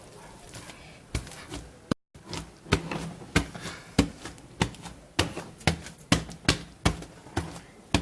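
Homemade slime mixed with styrofoam beads being kneaded and squeezed by hand, making sharp clicking squelches at a steady rate of about two a second. There is a brief break in the sound about two seconds in.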